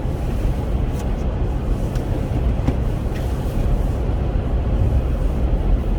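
Steady low road and engine rumble inside the cabin of a Chevrolet Captiva driving along, with a few faint clicks.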